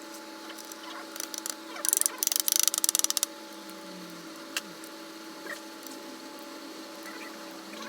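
Ratchet wrench clicking in a quick run for just over a second, about two seconds in, while a bolt is worked on the engine's top end during reassembly. A few scattered light tool clicks and a steady background hum are heard around it.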